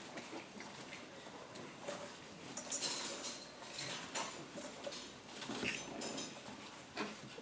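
Scattered light clicks, taps and clinks as French bulldog puppies move about and play, with a few louder knocks about three, four, six and seven seconds in.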